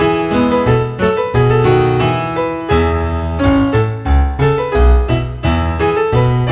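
Background piano music: a steady run of struck notes, several a second, over low bass notes.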